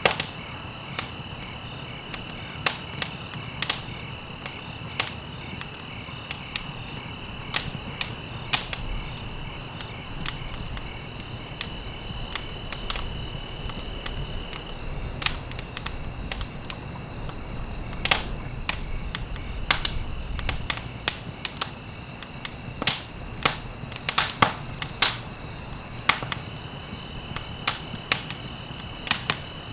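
Wood fire crackling, with irregular sharp pops over a low rumble. A steady high trill runs behind it, dropping out about halfway through and coming back near the end.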